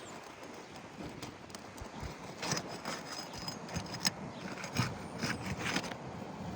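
Irregular knocks, clicks and scrapes of hand tools working on asphalt roof shingles, with the sharpest knock about four seconds in.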